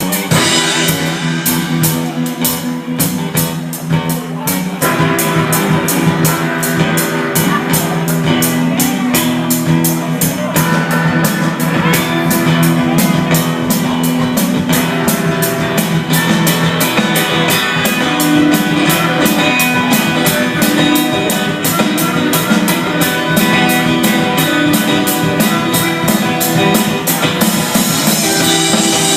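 Rock band playing a song: guitar over a drum kit keeping a steady beat, filling out from about five seconds in.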